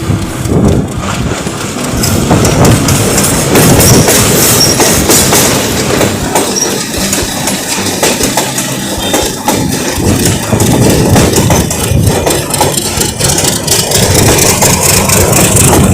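Train running along the tracks, a steady loud rumble of cars with wheels clattering over the rail joints.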